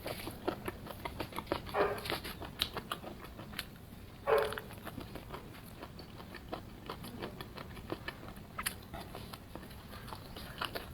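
Close-miked eating of fried skewers: irregular crisp crunches and mouth clicks from chewing, with a few short louder mouth sounds, the loudest a little over four seconds in.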